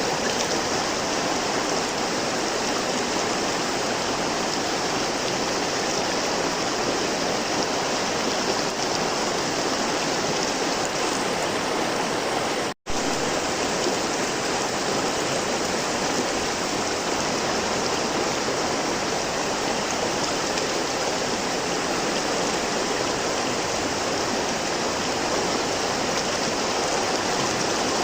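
River water flowing steadily in a continuous rushing wash, with a momentary dropout to silence about halfway through.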